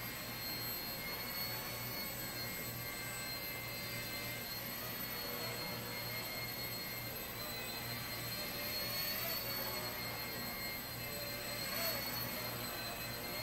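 Blade 70S micro RC helicopter in flight: a steady high-pitched whine from its electric motor and rotor. The pitch rises and dips slightly with throttle changes, around two-thirds of the way in and again near the end.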